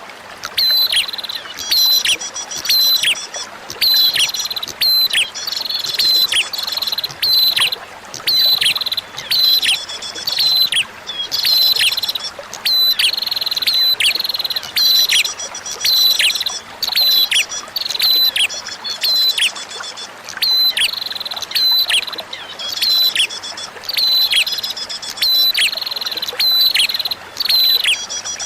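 Recorded prinia (prenjak) song: a string of sharp calls, each dropping steeply in pitch at its end, about one a second in repeated phrases, with brief fast high trills now and then. Behind it runs a faint bed of flowing water.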